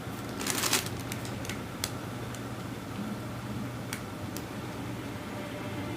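A brief rustle about half a second in, then a few scattered light clicks over a steady low hum.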